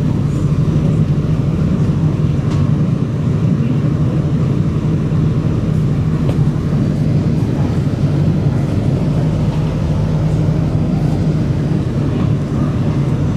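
Singapore MRT Circle Line train running in a tunnel, heard from inside the carriage: a steady low rumble with a hum.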